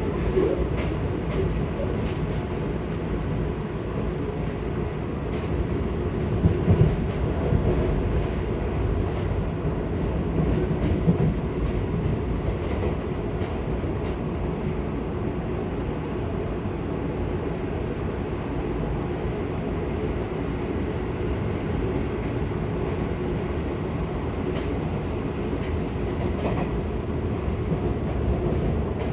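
Seibu 6000 series electric commuter train running at speed: a steady rumble of wheels on rail with scattered clicks and a few louder knocks from the rail joints.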